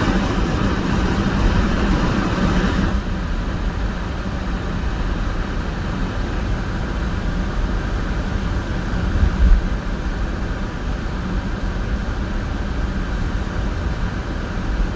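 Steady road and engine noise of a car being driven on a snowy road. It is louder and hissier for the first three seconds, then settles to a lower rumble, with one low thump about nine seconds in.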